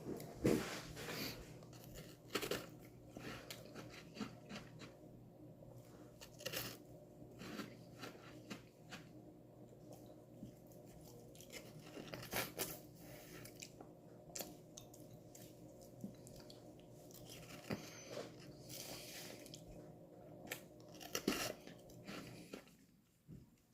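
Close-up biting and chewing of a frozen homemade strawberry lemonade popsicle, with irregular crunches of the ice.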